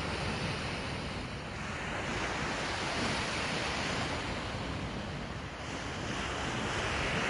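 Sea waves washing in, swelling twice, with wind rumbling on the microphone underneath.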